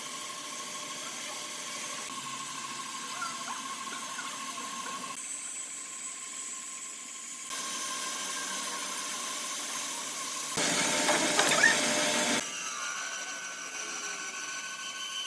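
Power tools running on wood in a string of short cut-together clips, a steady motor whine with hiss, and a louder, rougher stretch about two-thirds of the way through.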